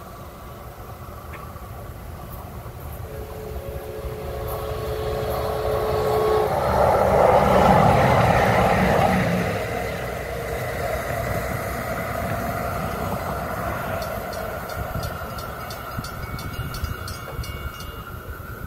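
DART electric light rail train passing, growing louder to a peak about eight seconds in and then fading.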